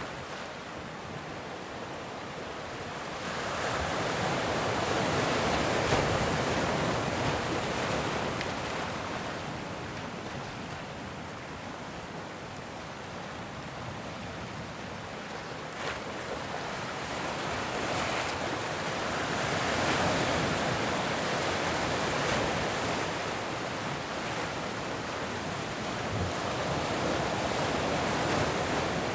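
Ocean waves, a steady rush of surf that swells and fades in two long surges, the first peaking about six seconds in and the second around twenty seconds in.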